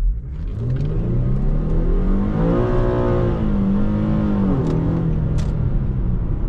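Infiniti G37S's 3.7-litre VQ37VHR V6, tuned with 3-inch intakes on the stock exhaust, accelerating hard, heard from inside the cabin. The revs climb steeply for about two and a half seconds, dip, pull again at a lower pitch and then ease off near the end.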